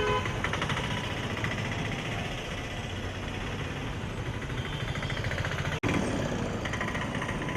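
Road traffic: vehicle engines running amid steady road noise, with a brief dropout about six seconds in.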